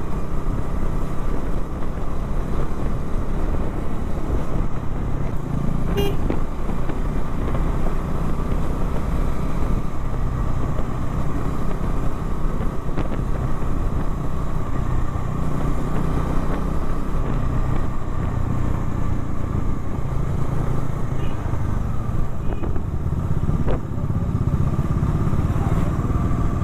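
Motorcycle engine running steadily at cruising speed, with wind rushing over the rider-mounted microphone. A brief horn toot about six seconds in.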